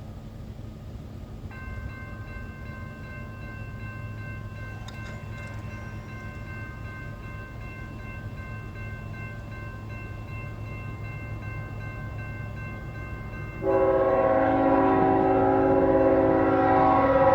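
Low rumble of an approaching Union Pacific freight train, with a crossing signal ringing a steady high tone from a second or two in. Near the end the locomotive's air horn comes in with a loud, long blast of several notes at once.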